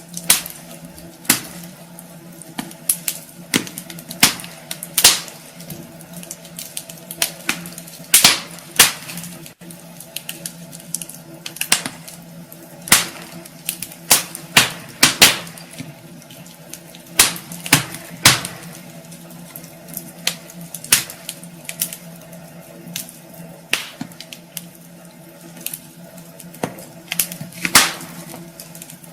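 Wood fire burning in a fireplace: irregular sharp crackles and pops over a steady hiss.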